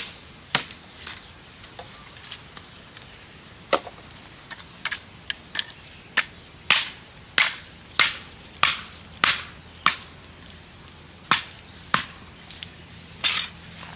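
Chopping: sharp knocks at uneven intervals that settle into a steady run of about six strokes, a little over half a second apart, in the middle.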